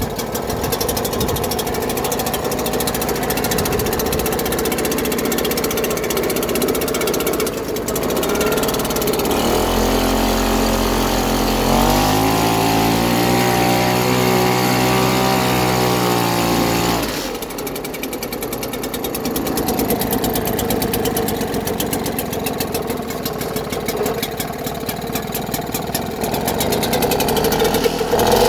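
British Seagull 4 hp two-stroke outboard engine running steadily in gear. From about nine seconds in, a strong steady pitched drone rises in over it and holds for several seconds before cutting off suddenly around the seventeen-second mark.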